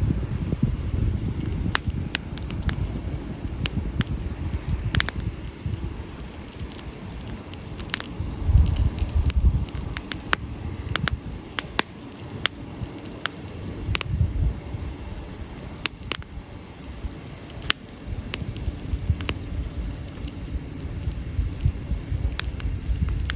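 Wood fire burning in an open campfire: irregular sharp pops and crackles of burning wood over an uneven low rumble that swells and fades.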